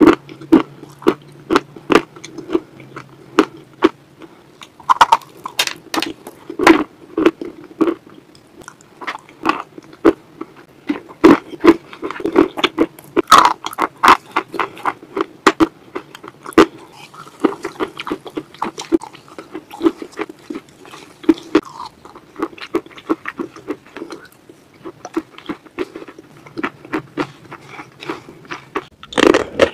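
Close-miked chewing of a chunk of dry natural chalk: irregular sharp crunches and crackles as the chalk breaks up between the teeth, several a second at times.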